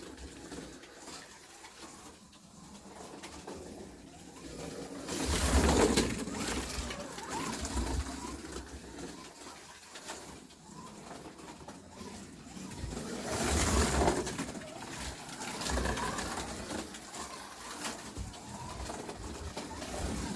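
NSR Corvette slot car with a sidewinder motor lapping a slot car track, its motor whirr and wheel rumble rising and falling each time it passes close by, loudest on a few passes.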